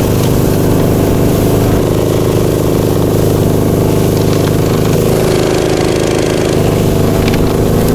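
Small engine of a tracked motorized snow tug running at a steady speed as it pushes through deep, loose snow.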